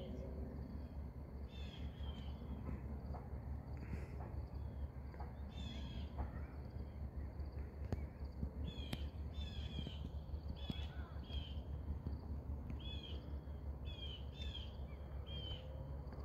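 A bird calling over and over with short, high chirps, often two close together, about one call a second, over a steady low rumble.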